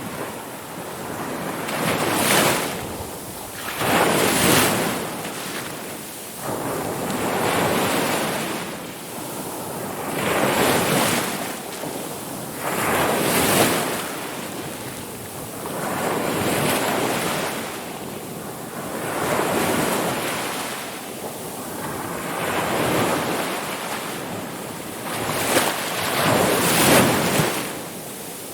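Ocean waves breaking and washing up a shore, each surge swelling and fading every two to four seconds.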